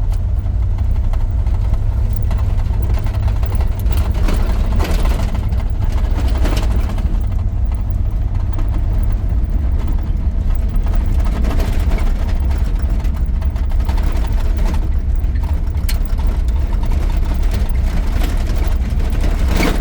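1983 GMC C2500 pickup with a 350 small-block V8 driving, heard from inside the cab: a loud, steady low rumble of engine and road noise, with scattered knocks and rattles as it goes over bumps.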